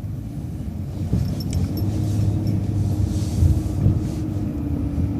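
City transit bus running on the road, heard as a low engine rumble with a steady whine that comes in about a second in. A brief hiss about three seconds in.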